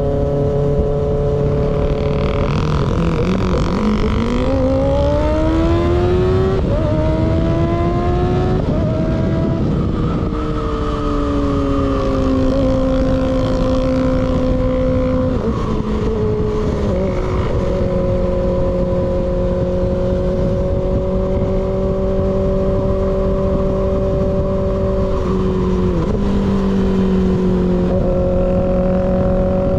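Sport motorcycle with an unbaffled slip-on exhaust, ridden hard. A few seconds in it accelerates through the gears, its pitch climbing and dropping back at each upshift. It then cruises at a steady engine speed with a few more gear changes, over steady wind rush.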